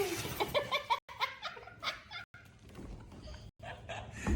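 A person laughing in quick, repeated bursts through the first second or so, then fading to quieter scattered sounds.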